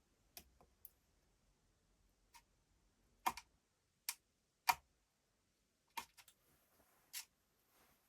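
Irregular, sharp clicks and light knocks of small hard parts and tools being handled during a drill's disassembly, about eight of them, the loudest a little before and after halfway.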